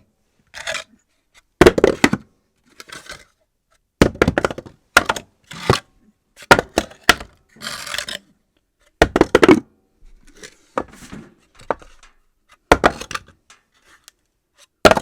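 Assorted objects dropped onto a floor one after another at irregular intervals, a dozen or so drops, each landing with a sharp knock and a short clatter or bounce.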